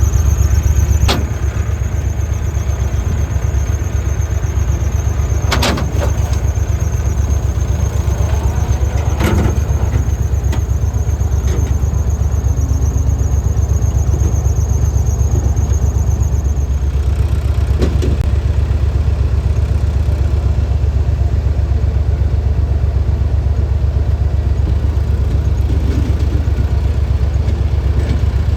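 Mahindra tractor's diesel engine running steadily under way, with a thin high-pitched squeal over it that stops about two-thirds of the way through, and a few sharp clanks and knocks along the way.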